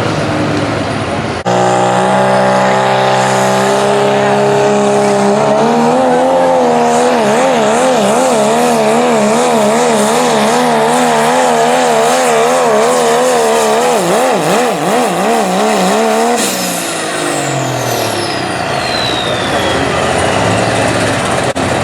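Turbocharged diesel pulling truck making a run at full throttle: the engine comes on hard about a second in, and its revs waver rapidly up and down through the pull. Near the end it lets off, and the engine winds down while a high turbo whistle falls in pitch.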